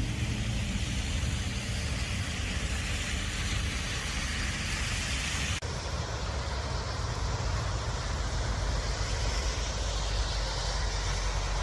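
Steady outdoor street noise: a low rumble with a hiss, like road traffic and wind on the microphone. It breaks off about halfway through into a similar, slightly duller stretch.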